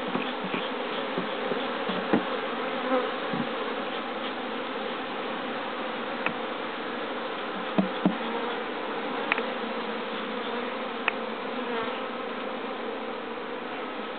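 Honeybees humming en masse around an opened hive, a dense steady buzz, with a few light knocks now and then.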